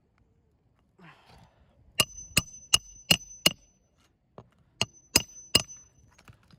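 Hammer blows driving roofing nails into asphalt shingles. Five quick strikes, a faint tap, then three more, each with a short metallic ring.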